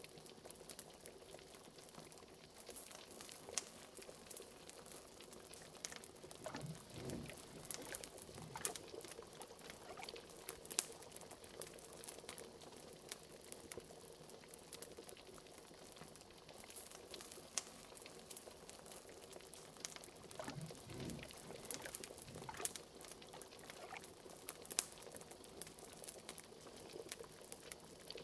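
Liquid bubbling at a steady boil, like a cauldron, with faint crackles from a wood fire throughout. Two deeper gurgles rise about seven and twenty-one seconds in.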